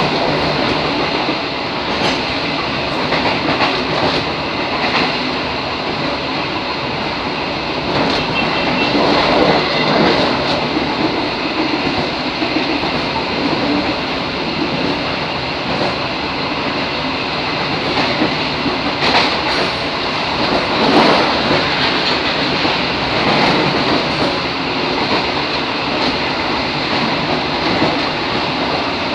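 KRD Bojonegoro local economy train running along the track: a steady rumble of wheels on the rails with irregular sharp clacks as the wheels cross rail joints.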